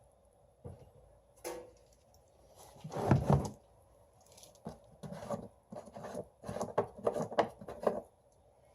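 Hands handling hard objects: a few scattered knocks, a louder clunk about three seconds in, then a quick run of clicks and taps.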